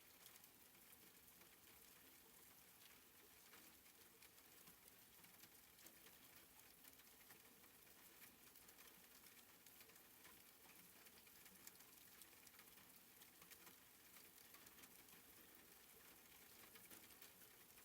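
Faint soft rain: a steady hiss dotted with many small drop ticks.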